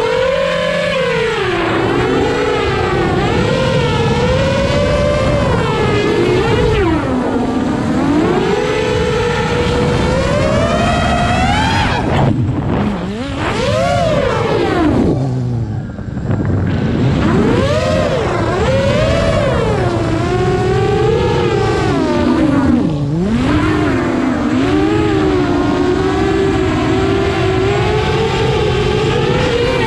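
A motor running with its pitch rising and falling over and over, as if speeding up and slowing down.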